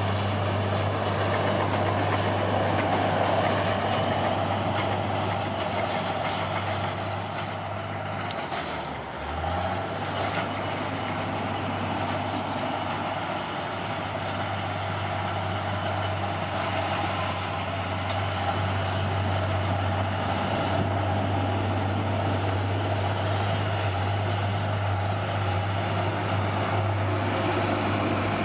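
Caterpillar D6R bulldozer's diesel engine running steadily as it works, its pitch dipping briefly about nine seconds in before coming back up.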